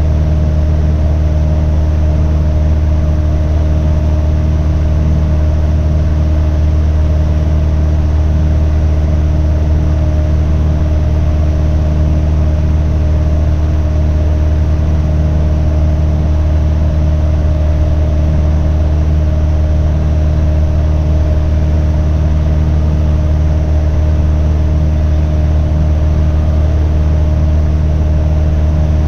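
Steady drone of a Cessna 177RG Cardinal's four-cylinder Lycoming engine and propeller in cruise, heard inside the cabin as a loud, unchanging low hum.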